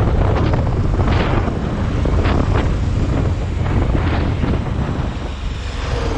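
Wind buffeting the microphone: a heavy, steady low rumble with irregular gusts swelling in about a second, two and a quarter seconds and four seconds in.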